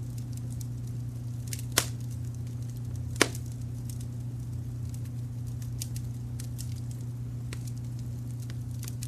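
Wood fire crackling, with scattered small snaps and two sharp loud pops, one a little under two seconds in and one about three seconds in. Under it runs a steady low rumble of brown noise.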